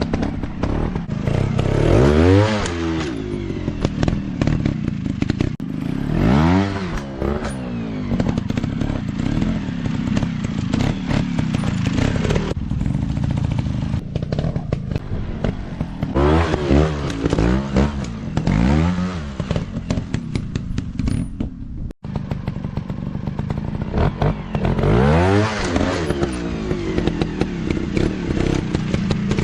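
Off-road dirt bike engine revving in repeated surges, its pitch climbing and falling again and again, with clattering from the bike working over rough ground.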